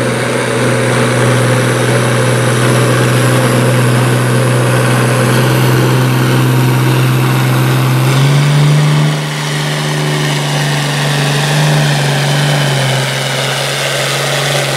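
A large engine idling steadily at a tractor and truck pull, its pitch stepping slightly higher about eight seconds in.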